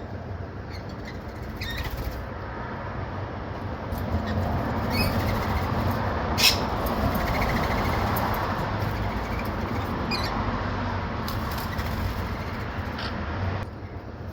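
Steady background noise that swells through the middle and eases again, with a few brief high bird chirps or squawks scattered through it.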